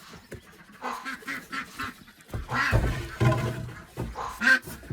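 Domestic ducks quacking, a run of short repeated quacks that grows loudest around the middle and again near the end, with a dull low rumble of handling noise under the middle part.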